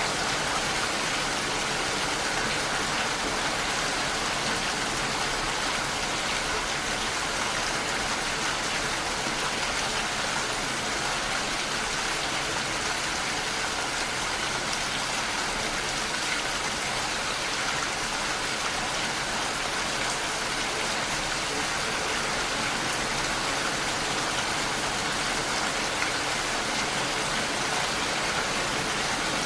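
Steady rainfall, an even hiss of falling rain with no distinct drops or thunder standing out.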